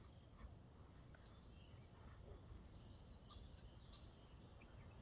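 Near silence: a faint low rumble with a few short, faint bird chirps.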